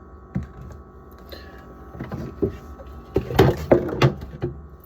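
Bottles and jars being handled and set down, giving scattered clicks and knocks, with a quick run of louder knocks about three seconds in.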